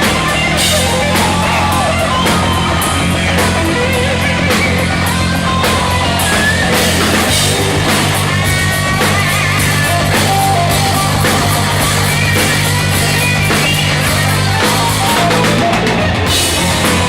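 Live heavy rock band playing an instrumental: drum kit and bass under an electric guitar line.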